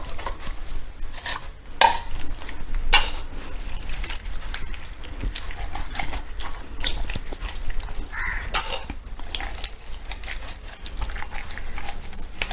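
Hands rubbing wet chilli-garlic masala paste into a raw whole chicken: irregular squelching, rubbing and light clicks of the chicken against its dish.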